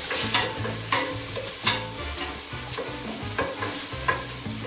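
Wooden spoon stirring and scraping an onion-and-tomato base frying in a stainless steel pot, with a steady sizzle and irregular scrapes of the spoon against the pot's bottom.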